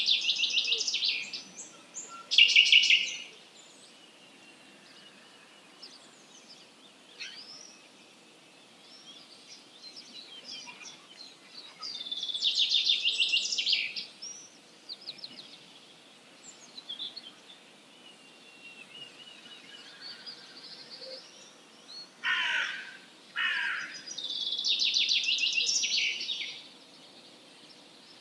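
Wild songbirds singing at dawn. One bird repeats a short, rattling trilled song phrase about every twelve seconds, fainter birds sing in between, and two short, lower, harsher calls come about 22 seconds in.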